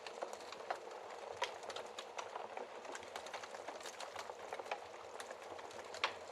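Wood fire in a fireplace crackling, with irregular pops and snaps over a steady hiss; the sharpest pop comes near the end.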